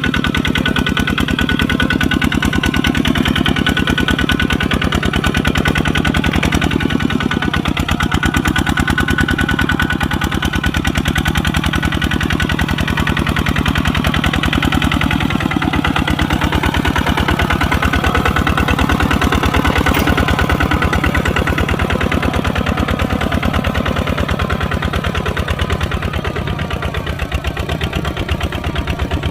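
Kubota RT140 single-cylinder diesel engine running steadily, with a rapid, even beat of firing strokes; it eases off a little near the end.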